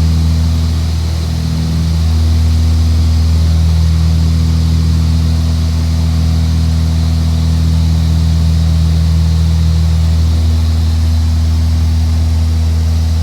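Aircraft engine and propeller droning steadily at cruise, with a brief dip in level about a second in.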